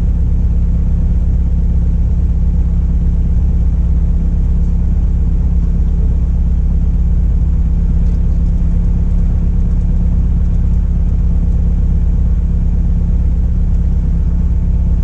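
Steady drone of a 1973 Cessna Cardinal RG's four-cylinder Lycoming engine and propeller heard inside the cabin, a heavy low hum that holds even without change.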